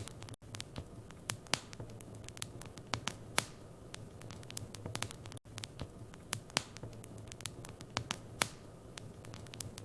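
Wood fire burning in a fireplace, crackling with many sharp irregular pops and snaps over a low steady rumble.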